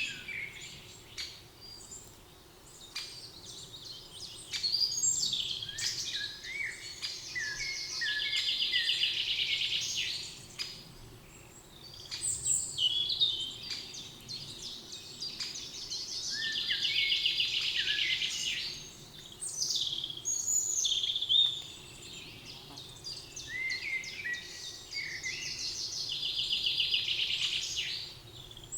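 Several songbirds singing in a spring forest, with assorted short chirps and whistles. One bird repeats a fast, buzzy trill about every eight seconds, each trill lasting about two seconds.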